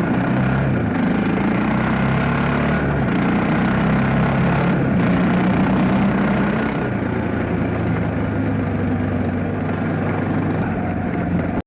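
Dirt bike engine running while riding, its note and load shifting about every two seconds as the throttle or gears change.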